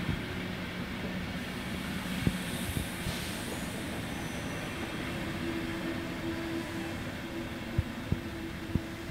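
Intercity train rolling slowly along the platform, a steady rumble with a low hum that shifts higher about halfway through. A few sharp clicks, and a brief hiss about three seconds in.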